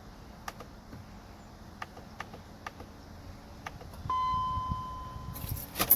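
A series of light, sharp clicks, about six over four seconds, then a steady electronic beep that starts about four seconds in and holds, broken near the end by a louder clatter.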